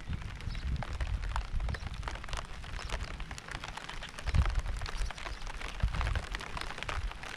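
Steady rain, with many separate drops ticking close by. Low rumbles swell up now and then, strongest about four and a half and six seconds in.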